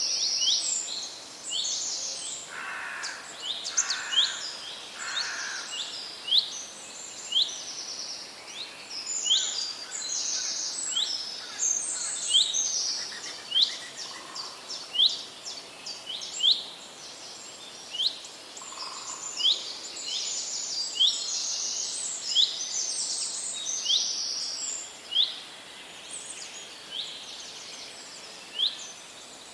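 Several forest birds singing together: a dense high twittering with many short, quick sweeping notes about once a second, and a few lower, softer notes, three in a row a few seconds in.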